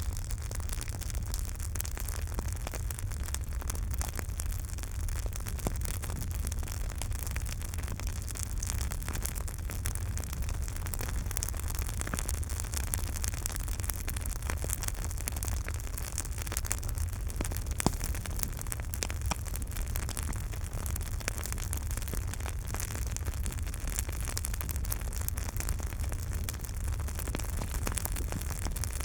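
Campfire burning steadily with irregular crackles and pops over a low rumble of flames, and one sharper, louder pop a little past the middle.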